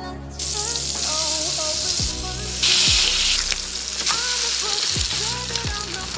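Butter and slices of luncheon meat frying in a nonstick pan: a steady sizzle that starts about half a second in and grows louder for a moment around the middle.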